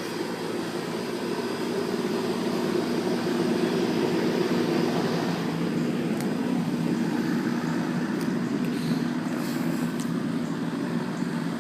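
A steady mechanical drone with a low hum, swelling a few seconds in, with a few faint clicks later on.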